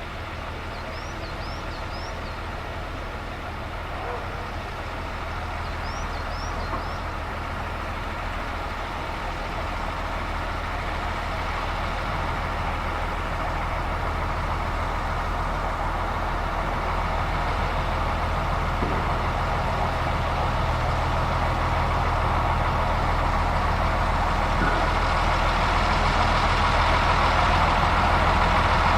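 A diesel engine running steadily, with a low drone that grows gradually louder. A few short bird chirps come through early on.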